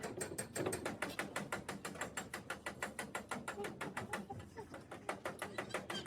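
Hand ratchet wrench being cranked, giving a rapid, even run of clicks at about eight a second.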